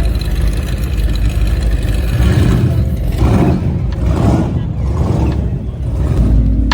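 Classic car engines rumbling as the cars pass, with several short swells in engine pitch from about two seconds in.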